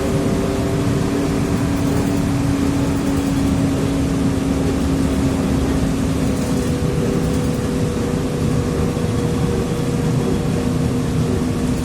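TrolZa-5275.05 Optima trolleybus heard on board: its Ishimbay drive axle and traction motor whine in a few steady tones that sink slowly in pitch, over loud road and body rumble.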